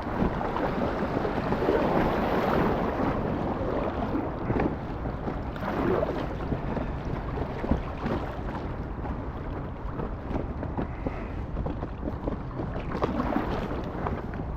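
Fast-flowing river water rushing and splashing around an inflatable kayak running small rapids, with short splashes now and then and wind buffeting the microphone.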